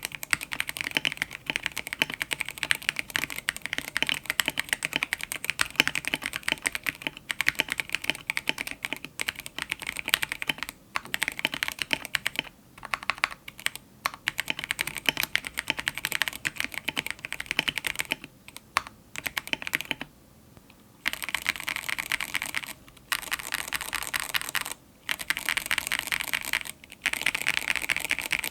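Fast, continuous typing on a KBD67 Lite mechanical keyboard fitted with stock, unlubed Gateron X linear switches. The keystrokes clack in dense runs, with a few short breaks and one pause of about a second about two-thirds of the way through.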